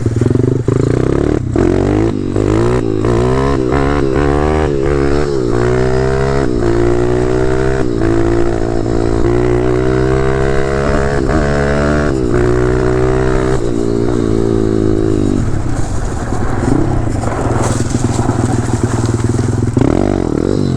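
Four-stroke 190cc pit bike engine revving as it is ridden, its pitch rising and falling with the throttle and climbing steadily for several seconds in the middle. A run of sharp knocks and clatter in the first few seconds.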